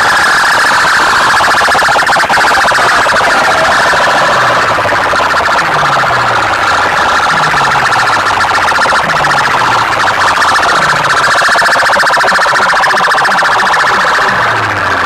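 Large DJ sound-box speakers playing a loud, buzzing siren-like electronic tone. From about four seconds in, low bass sweeps fall in pitch roughly every second and a half.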